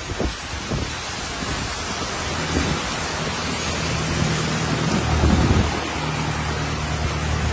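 Heavy rain pouring down in a thunderstorm, a steady wash of noise. From about two seconds in a low, steady engine hum from a passing van joins the rain.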